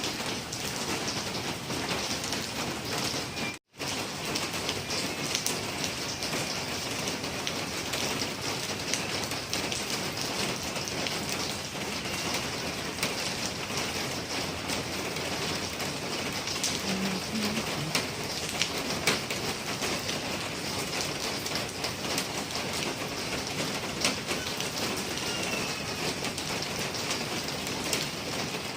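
Steady rain falling, with scattered individual drops striking a surface. The sound cuts out for an instant a little under four seconds in.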